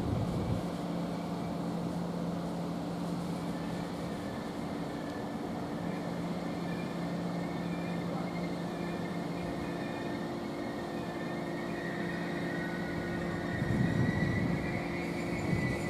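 Class 345 electric multiple unit standing at the platform, its onboard equipment giving a steady multi-tone electrical hum. Near the end a higher whine grows and the noise swells as the train starts to move off.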